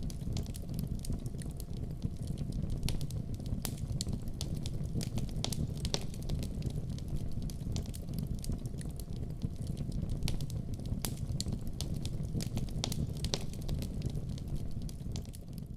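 Fire burning in a fireplace, crackling with many irregular sharp pops over a steady low rumble of the flames.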